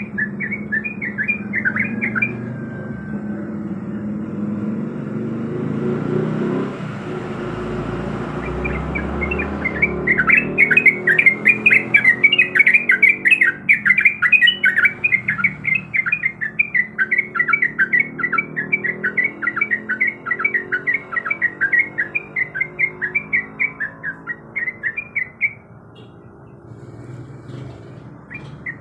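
Yellow-vented bulbul (trucuk) singing in fast, repeated chattering phrases: a short run at the start, then a long dense run of rapid notes from about ten seconds in, fading near the end. A steady low hum sits beneath it, with a low rumble a few seconds before the long run.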